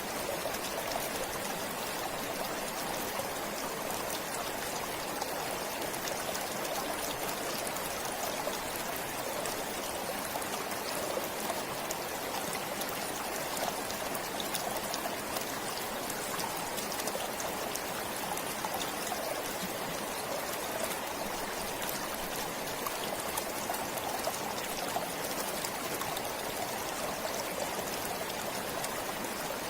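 Forest stream running steadily: an even rush of flowing water with small trickling ticks through it.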